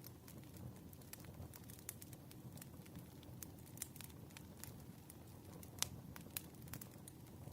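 Faint wood fire burning: irregular sharp crackles and pops over a soft low rumble of the flames, with one louder pop about six seconds in.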